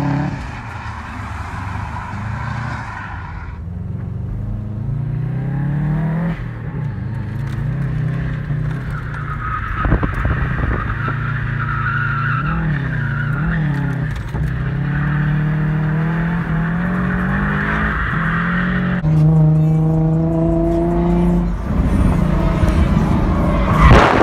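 Subaru WRX's turbocharged flat-four engine revving hard during drifting, its pitch climbing and falling repeatedly, with tyres squealing and skidding. A burst of wind noise comes in near the end.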